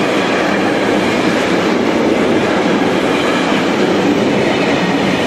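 Container freight train rolling past, a steady loud noise of its wagons' wheels on the rails.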